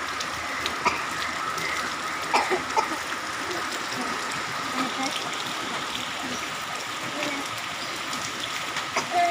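Steady rain pouring down with running water, and a few sharp splashes.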